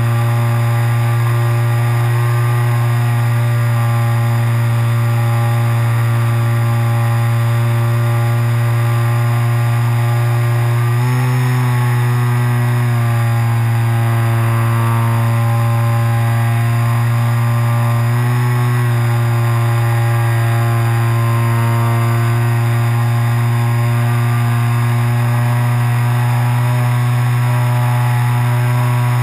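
Electric motor and propeller of an RC glider, heard from a camera on board, running steadily as a loud, even hum. The pitch steps up briefly twice, about eleven seconds in and again near nineteen seconds, as the throttle changes.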